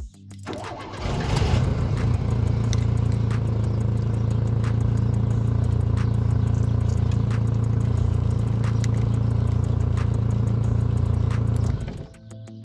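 Renault Toros car engine started by remote: a brief crank that catches about a second in, then a steady idle that cuts off suddenly near the end.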